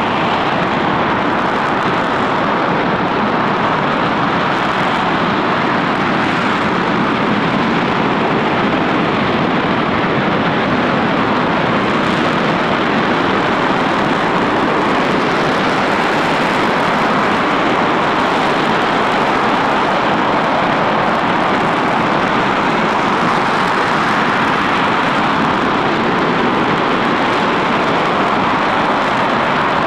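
RS-25 rocket engine firing steadily on a test stand: an even, unbroken roar at constant loudness.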